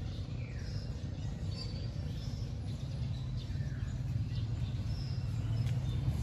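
Outdoor ambience: short bird chirps, several scattered through, over a steady low rumble.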